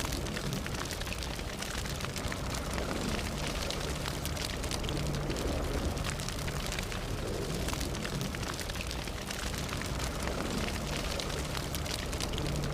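Fire burning steadily with a dense, continuous crackle of small sharp pops over a low rushing roar.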